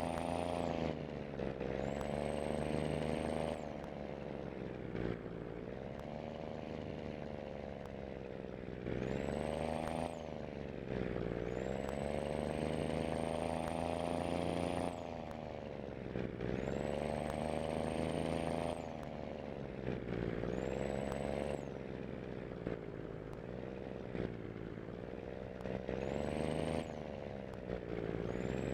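Scania diesel engine pulling under load, its pitch climbing and then dropping again about six times, as with repeated gear changes. A high thin whistle rises with each climb and cuts off at each drop.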